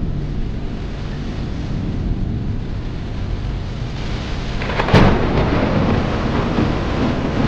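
Steady rain with a low rumble underneath. About five seconds in, a sharp thunderclap cracks, the loudest sound here, and trails off into rumbling.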